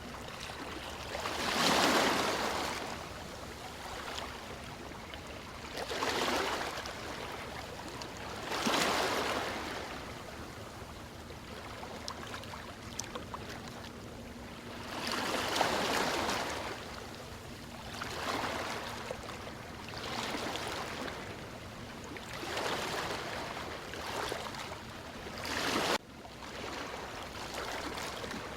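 Ocean waves washing in on a shore: a steady wash with a louder surge every few seconds, about eight in all, and a sudden break in the sound near the end.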